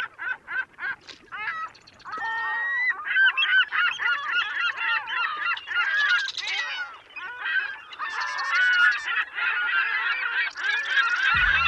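A flock of birds calling: many short, bending calls, a few spaced ones at first, then dense and overlapping from about two seconds in.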